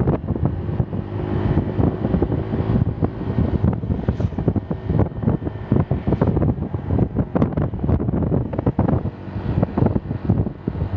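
Wind buffeting the microphone of a fast-moving vehicle, a continuous gusty rumble over the vehicle's road and engine noise.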